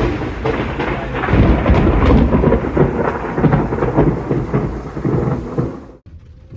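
Thunderstorm: heavy rain with loud rolling thunder rumbling underneath, cutting off abruptly about six seconds in.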